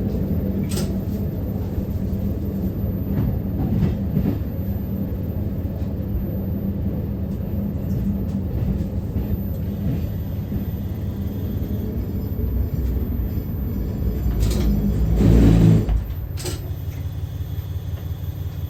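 KiHa 150 diesel railcar running, heard from the cab: a steady low rumble with occasional sharp clicks. About fifteen seconds in a louder rush builds and then cuts off suddenly, leaving a quieter rumble.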